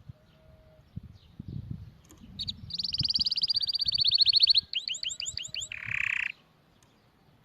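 Domestic canary singing one song phrase about two seconds in: a fast, high trill, then about five slower sweeping notes, ending in a short harsh buzz.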